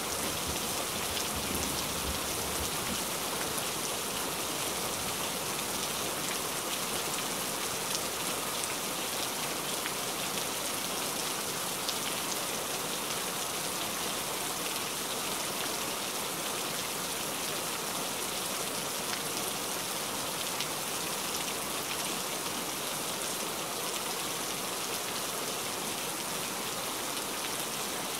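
Steady rain, a dense, even patter of drops that keeps up without a break.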